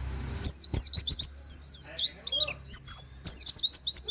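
A pleci (white-eye) singing a fast, continuous run of high chirps and sweeping whistles: the rapid 'nembak' song with 'wit wit' and canary-like notes that is prized for tutoring other songbirds.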